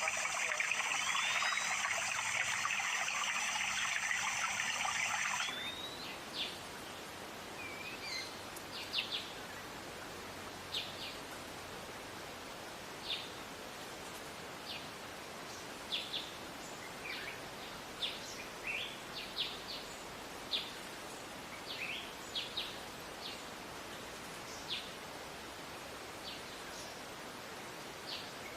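Running water trickling for about the first five seconds, then cut off suddenly. After that, a steady outdoor background with a small wild bird's short, high chirps repeated irregularly, roughly one a second.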